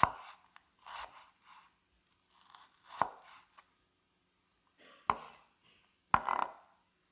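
Kitchen knife cutting food on a cutting board: about five separate, unhurried cuts, one to two seconds apart, each ending in a sharp knock of the blade on the board.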